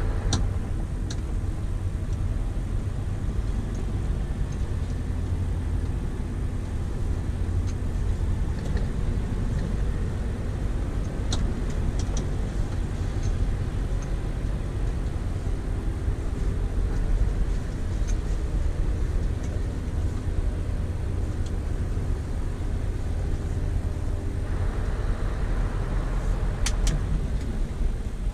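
Scania V8 diesel truck engine running under way, heard from inside the cab as a steady low drone, with a few sharp clicks around the middle and near the end.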